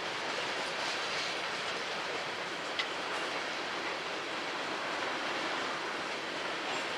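Freight train cars rolling past on the rails, a steady wheel and track rumble with one sharp click about three seconds in.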